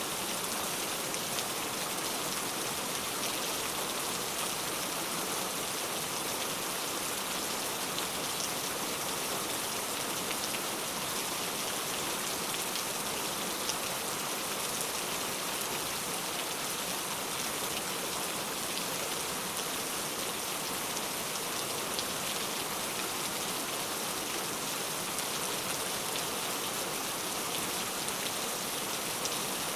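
Heavy rain falling steadily, a dense even hiss of drops with faint scattered patters and no thunder.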